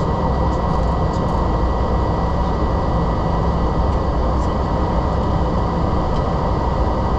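Steady engine and airflow noise of a Boeing 767-300 climbing after takeoff, even and unchanging, with a thin steady whine running through it.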